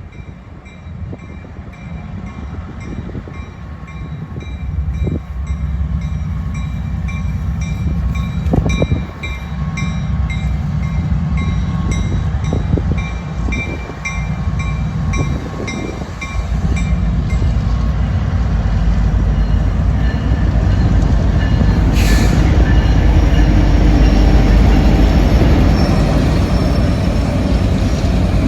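A train rumbling past on the tracks, getting steadily louder. Over the first half a rapid, evenly repeated metallic ringing sounds above the rumble, then stops. The rest is the loud, dense roar of the train going by.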